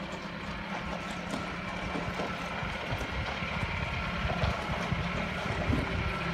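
Mahindra Roxor's diesel engine running steadily as it drives along a gravel trail, with a constant low drone, rattles and ride noise, slowly getting a little louder.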